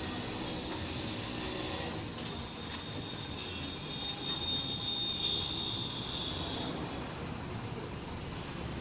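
Diesel engine of an Ashok Leyland 3118 twin-steer multi-axle truck running steadily as the truck manoeuvres, with a thin high whine over it for a few seconds in the middle.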